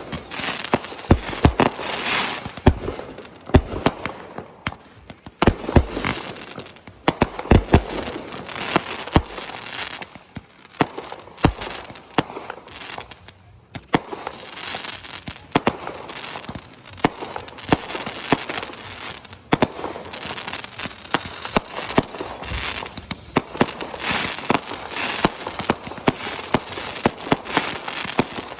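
Fireworks display: aerial shells bursting in rapid succession with crackling between the bangs. High whistles falling in pitch sound just at the start and several times in a row near the end.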